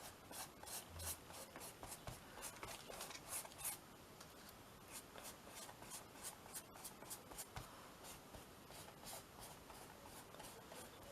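Paintbrush stroking matte medium onto a canvas: a faint, steady run of short brushing strokes, about three a second.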